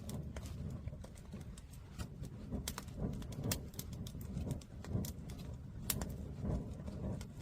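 Wood fire crackling in a stacked firewood tower: irregular sharp pops and snaps over a steady low rumble.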